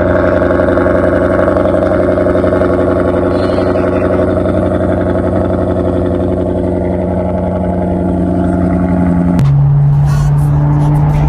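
Maserati GranTurismo V8 idling steadily at close range, with an even, unchanging engine note. Near the end the sound cuts to a V8 running at a steady cruise.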